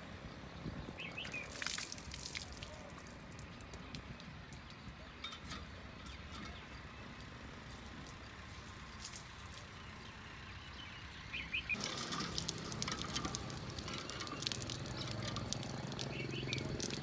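Faint bird chirps, a few short calls over quiet open-air background noise. About twelve seconds in, the sound turns louder, with a dense run of clicks and clatter over a low hum.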